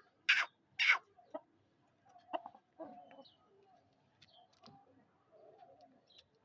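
Aseel chickens calling: two loud, short squawks in the first second, then softer scattered clucking.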